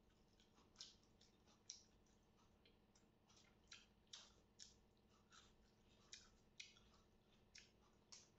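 Faint eating sounds: short, irregular clicks and smacks of mouths chewing, about one or two a second.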